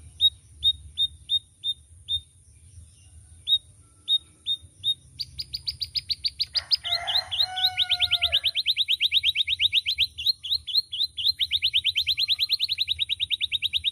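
Male domestic canary singing: a few separate sharp chirps, then from about five seconds a long, fast rolling trill of rapidly repeated notes that runs on to the end, with a few lower notes mixed in briefly in the middle.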